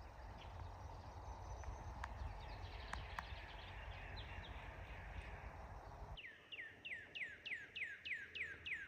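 Faint background hiss with a few soft clicks. From about six seconds in, a northern cardinal sings a fast run of clear down-slurred whistles, about four a second.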